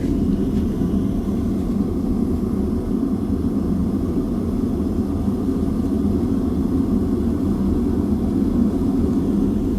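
Gas forge burner running steadily with the gas pressure turned up, an even low rushing noise with no hammer blows.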